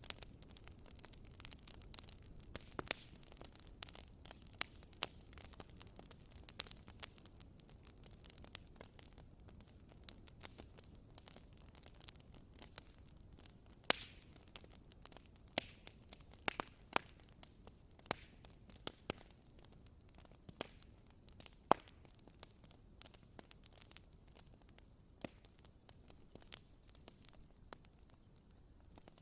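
Campfire wood crackling, with irregular sharp pops and snaps, over crickets chirping in a steady, even pulse.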